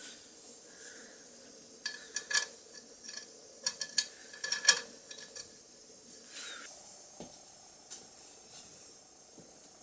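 Small metal parts clinking and tapping as they are handled, with a burst of sharp, briefly ringing clinks a couple of seconds in, then fewer, lighter ticks.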